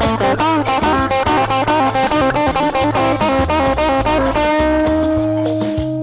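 Chicha (Peruvian cumbia) band music: a guitar picks a fast, bending melody over bass, then holds one long note from about four seconds in.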